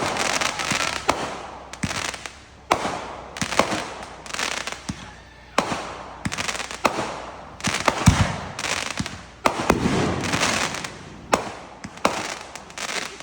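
Fireworks going off in quick succession: sharp bangs about once a second, each trailing off in a rush of noise, with one deeper, louder boom a little past halfway.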